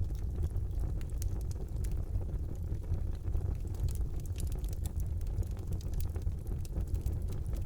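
Wood fire burning in a fireplace: a steady low rumble of the flames with frequent small, sharp crackles and pops from the burning logs.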